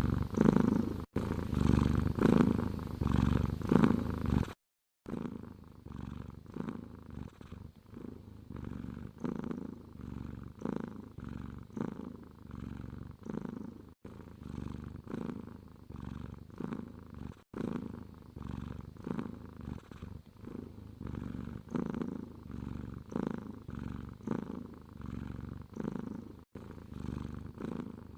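Domestic cat purring in a steady rhythm of about one purr cycle a second. About four and a half seconds in the sound cuts out briefly, then the purring carries on a little quieter.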